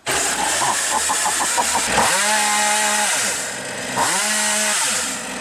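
Partner 351 two-stroke chainsaw engine fires and runs unevenly at low speed, then is revved up to a steady high pitch twice, about two and four seconds in, dropping back between. It is being test-run without its air filter fitted, before final carburetor tuning.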